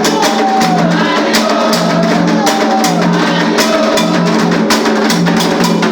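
Music of rapid drumming with singing voices carrying a melody over it and a low drum note repeating about once a second.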